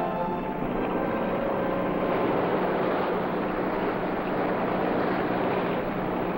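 Motorboat engine running steadily over rushing water noise, as the music before it fades out in the first second or two.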